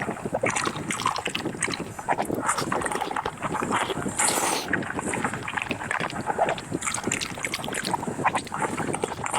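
Close-miked eating: chewing and mouth smacking with many small wet clicks, and a short hiss about four seconds in.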